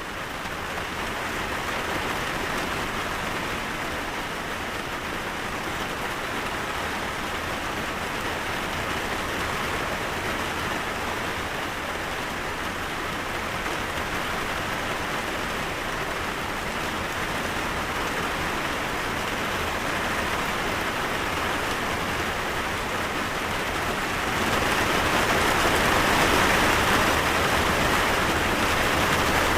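Steady rain falling, an even hiss of drops on surfaces, growing heavier and louder about 24 seconds in.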